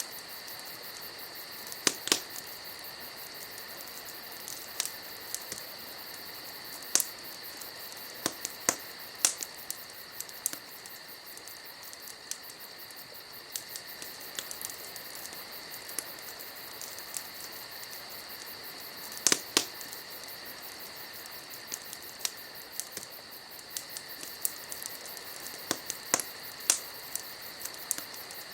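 Wood fire crackling, with irregular sharp pops, a few of them loud, over a steady high insect chirring.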